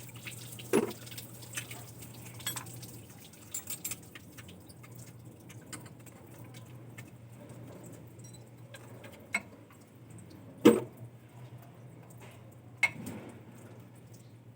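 Metal hand tools and parts clinking and knocking now and then, with one louder clank about two thirds of the way through, over a steady low hum.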